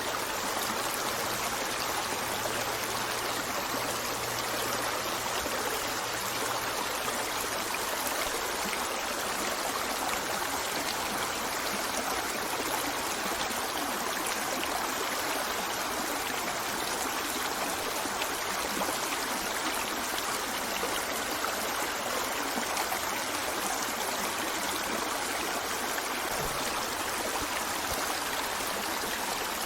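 Stream water running and trickling over rocks in a steady, unbroken rush.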